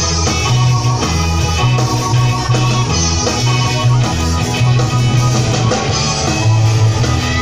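Live rock band playing an instrumental passage between sung lines: guitar over a strong, steady bass line.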